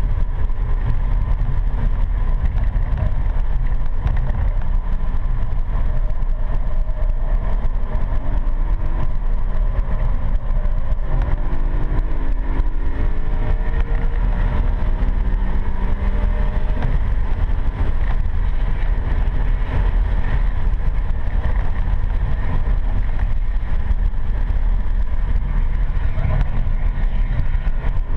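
BMW M3 E92's V8 engine heard from inside the cabin, buried under a heavy, steady low rumble of road and cabin noise. About a third of the way in, its pitch climbs for several seconds as the car accelerates, and it starts to rise again near the end.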